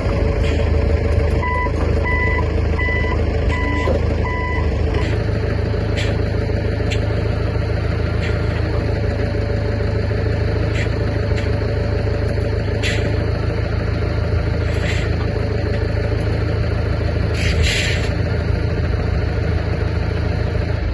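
A vehicle engine running steadily with a low hum, its reversing alarm beeping five times in the first few seconds. Several sharp metallic knocks sound over the engine later on.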